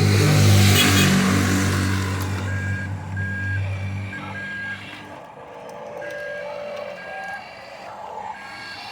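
Reversing alarm on a radio-controlled truck beeping at an even pace, about once every three-quarters of a second, from a few seconds in. Before it starts, a loud low engine-like drone with a burst of hiss runs and fades out.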